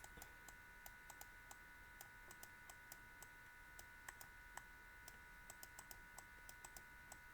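Faint, irregular light clicks, a few a second at times, over a faint steady electrical whine.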